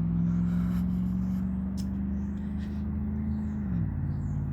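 A motor vehicle's engine running on the street, a steady low hum whose pitch creeps up slowly and then drops about three and a half seconds in.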